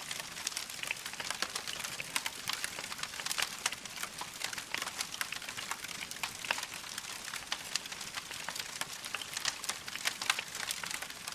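Wood fire crackling in a fireplace, with a steady hiss and a dense run of irregular sharp pops and snaps.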